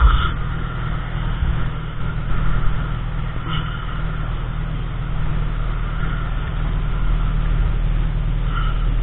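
Steady low rumble of a car on the move, heard from inside, with a few brief sharp sounds over it.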